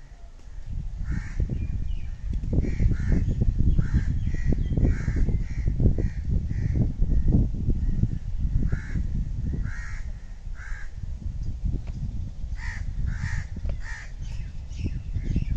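Short, harsh bird calls repeated in runs of about two a second, over a loud low rumbling noise that starts about half a second in.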